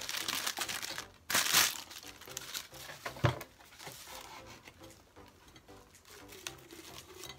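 Clear plastic wrapping crinkling and rustling as a bunch of artificial roses is pulled out of it and handled, in bursts, the loudest about a second and a half in and another near three seconds, then lighter crinkles.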